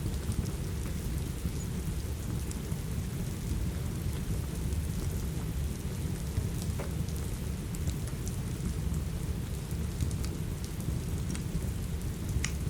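Steady rain with a low, even rumble underneath, mixed with a fireplace crackling: scattered small pops throughout, a sharper one about seven seconds in and another near the end.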